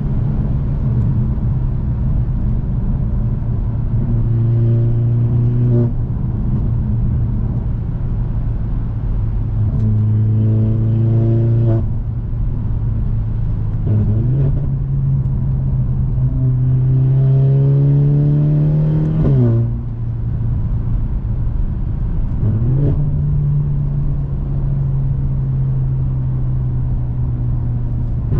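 Mercedes-AMG C43 (W206) turbocharged four-cylinder running through a Fi exhaust with a catless downpipe while driving, with a steady drone broken by several short pulls where the pitch climbs. The longest pull builds for about three seconds and cuts off sharply about two-thirds of the way in as the throttle is lifted.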